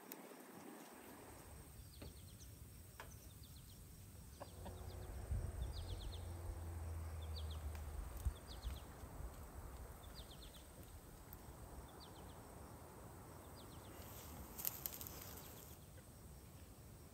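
Faint rural outdoor ambience with a bird repeating a short high chirp about once a second. A low hum rises for a few seconds in the first half, and there is a brief rustling burst near the end.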